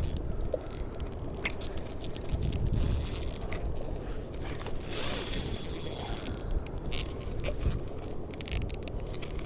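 Spinning fishing reel being worked against a heavy fish, its gears and clicking mechanism ticking and grinding in quick irregular clicks over a low rumble of wind and water.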